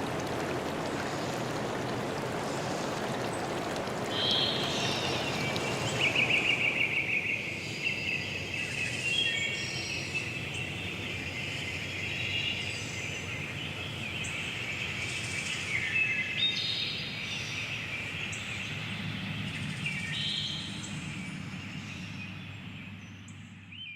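Running stream water that gives way about seven seconds in to songbirds singing and calling, with repeated trills, over a faint low hum. Everything fades out at the very end.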